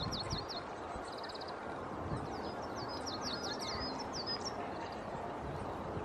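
Small songbirds chirping in quick series of short falling notes, with a brief rapid trill about a second in and the busiest singing between two and four and a half seconds in, over steady outdoor background noise.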